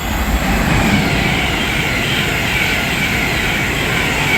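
A train passing through the station at speed: a loud rushing noise of wheels and air that swells at the start, holds steady, and begins to fade near the end.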